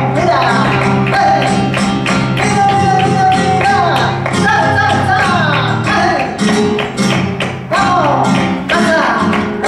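Flamenco music: quick guitar runs that slide downward over a dense rhythm of sharp percussive strikes.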